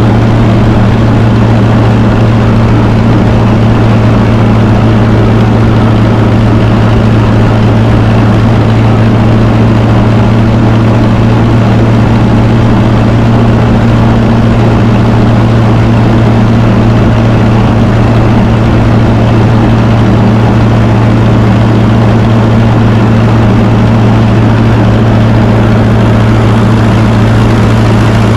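1954 Fordson tractor engine running steadily at idle, loud and close, with a deep even drone that holds the same pitch throughout.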